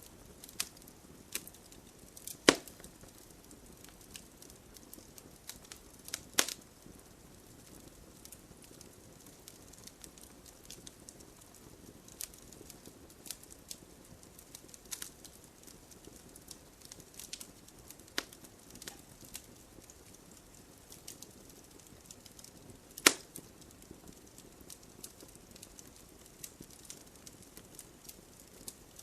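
Wood fire crackling: a faint hiss with scattered small crackles and three loud, sharp pops, two in the first several seconds and one more well after the middle.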